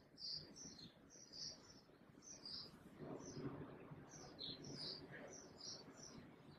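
Faint high chirping of small birds, short chirps about two a second, over a low background hum that rises about three seconds in.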